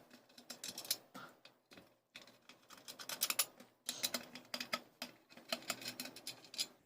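Irregular light clicks and scrapes of hands and a screwdriver working on the opened electric fan's screws and metal parts.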